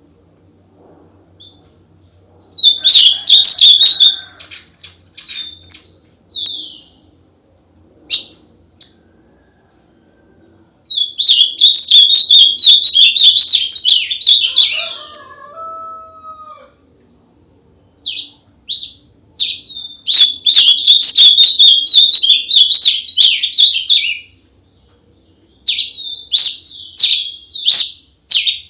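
A songbird singing loudly in long phrases of rapid, high chirping trills: three bursts of a few seconds each, with a few lower whistled notes about halfway and a run of short separate chirps near the end.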